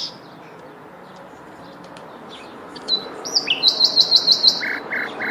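Bird singing: after a stretch of only steady background hiss, a whistled note about three seconds in, then a quick run of high chirps and three short lower notes near the end.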